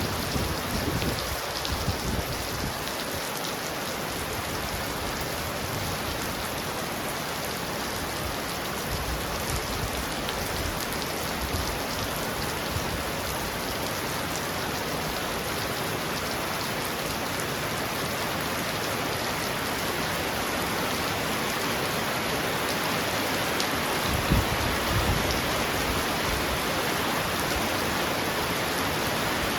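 Heavy rain falling steadily on a roof, a dense even hiss of drops. A brief low rumble comes near the start and again about three-quarters of the way through.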